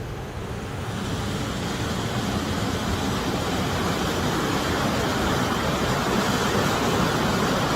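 Waterfall rushing: a steady, loud roar of falling water, growing a little louder over the first couple of seconds.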